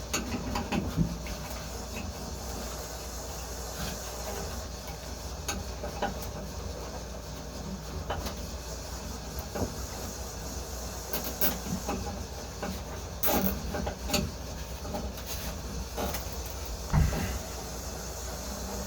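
Wires being bundled and zip-tied by hand: scattered clicks, knocks and rustles over a steady low hum of background machinery.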